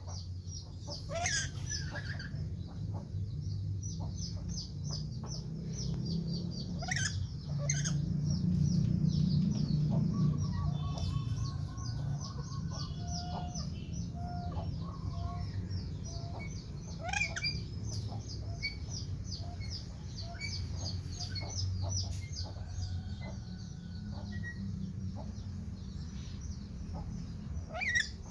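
Birds calling: a few loud, sharp, falling calls spread through, over continuous dense high chirping and a steady low rumble.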